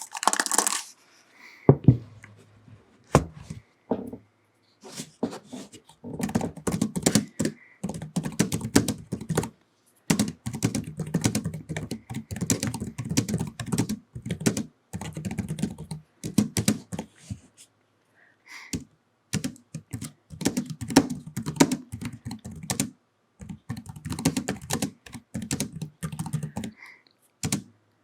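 Typing on a computer keyboard: a few separate key clicks, then runs of rapid keystrokes broken by short pauses. A brief rustling noise right at the start.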